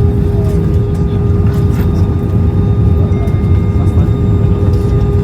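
Airbus A320 cabin noise: a steady deep rumble from the engines and airflow, with a constant hum running through it.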